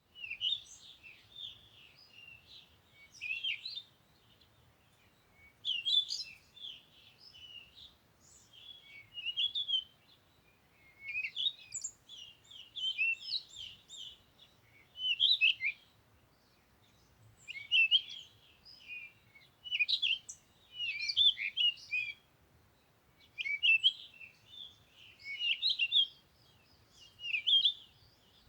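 A small bird singing: bursts of high, quick, twittering chirps, a new phrase every second or two.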